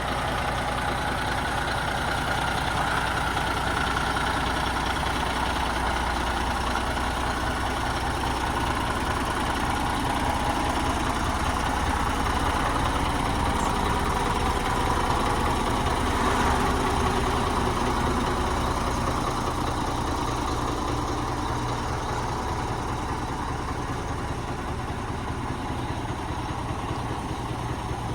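ERF ECT XXL tractor unit's diesel engine idling steadily.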